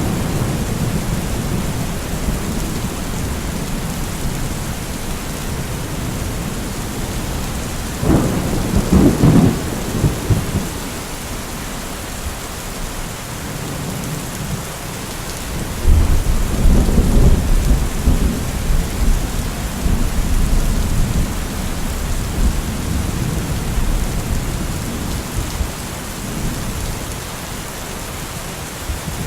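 Steady heavy rainfall with thunder: a sharp thunderclap about eight seconds in, then a long low rolling rumble starting about halfway through and fading over several seconds.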